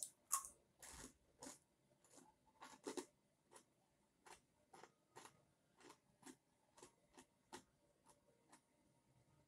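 A person chewing a mouthful of food with the mouth closed: soft crunches and wet mouth clicks about twice a second, the loudest just after the first bite.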